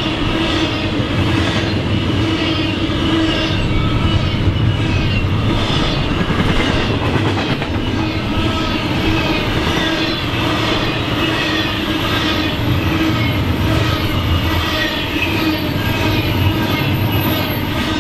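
Double-stack intermodal container train passing close by at speed: a steady rumble of steel wheels on the rails, with a regular, repeating clatter as the cars go past.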